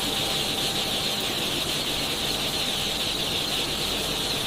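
A large mass of newly hatched chicks peeping together, so many that it merges into one steady, high-pitched chatter.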